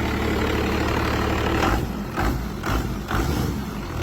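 5.9 Cummins turbo diesel inline-six running steadily, then from about halfway in going uneven, with surges about every half second.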